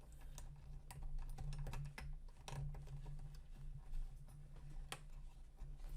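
Irregular light clicks and taps of printer wiring and plastic parts being handled and pushed into place, over a steady low hum.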